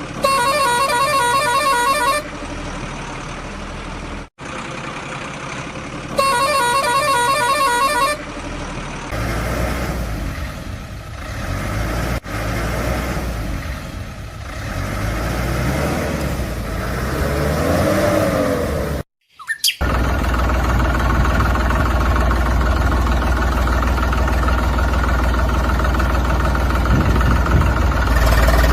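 Vehicle sound effects: a truck horn blares twice for about two seconds each, then an engine runs with its pitch rising and falling. After a brief cut about two-thirds of the way through, a steady low engine drone continues.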